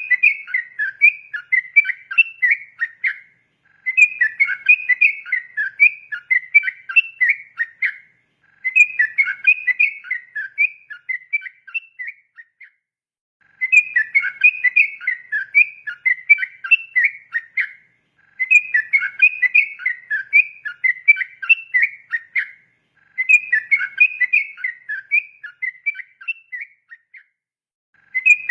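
Yellow-vented bulbul (trucukan) singing its rolling 'ropel' song: phrases of about four seconds of rapid, bubbly whistled notes, repeated about six times with short pauses between.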